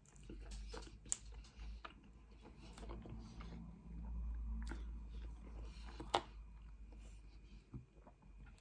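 Pizza crust being chewed with the mouth closed, with scattered small mouth clicks; the sharpest click comes about six seconds in.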